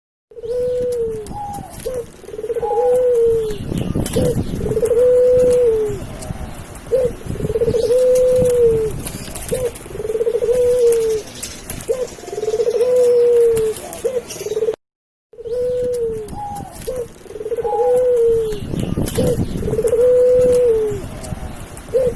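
A dove cooing over and over. Each call is a short note followed by a longer rolling coo, repeated about every two seconds. It is cut off briefly twice by silent edits.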